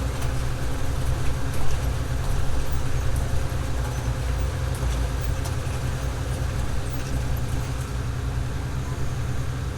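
Engine of harvest farm machinery running steadily: a continuous low drone.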